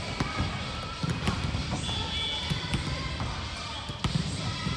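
Volleyball game in a gym: repeated sharp slaps of the ball being hit and bouncing, over a steady hall rumble with players' voices in the background.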